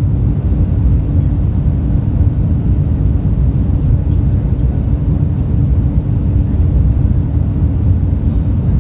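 Airbus A320neo cabin noise: a steady low rumble of engines and airflow, with a faint steady hum.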